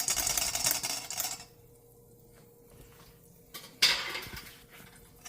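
Metal kitchen utensils clattering and scraping against each other for about a second and a half, then quiet, then one sharper clatter of metal on metal.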